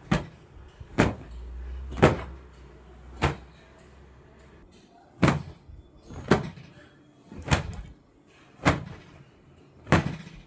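A series of nine sharp knocks, about one a second, with a longer pause around four seconds in.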